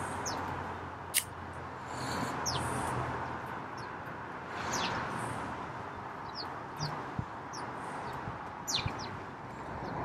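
Small garden birds calling around a feeder: scattered short, high chirps that sweep downward in pitch, over a steady background hiss. A single sharp click about a second in.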